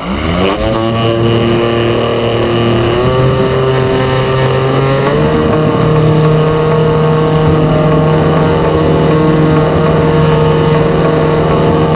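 Motor and propeller of a radio-controlled model airplane, heard from a camera mounted on the plane. The pitch rises quickly at the start as the motor throttles up, steps higher about three and five seconds in, then holds steady.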